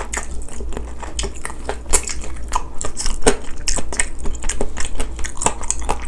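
Close-miked eating sounds: a person chewing and biting food, with many quick irregular wet clicks and smacks over a steady low hum.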